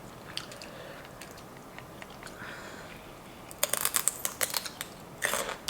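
Raw celery being bitten and chewed with sharp, crisp crunches: a quick run of them a little past halfway, then a short second run near the end.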